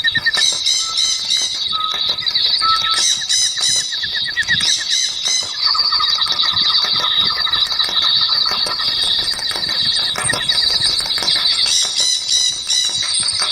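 Chorus of forest birds calling over one another, a dense mix of rapid, high-pitched trills with shorter lower trilled phrases coming and going.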